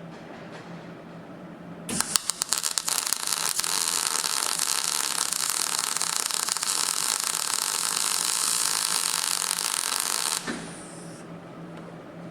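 MIG welder arc on sheet steel: about two seconds in it strikes with a few sputtering cracks, then runs as a steady, loud frying hiss for about eight seconds before cutting off. A low hum from the welding machine sits underneath.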